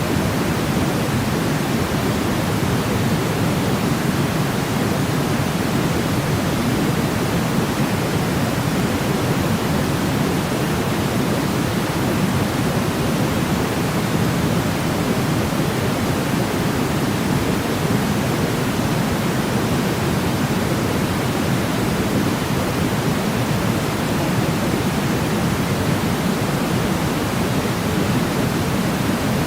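Steady sleep-noise track: an even, unbroken hiss with most of its weight low, deeper than pure white noise.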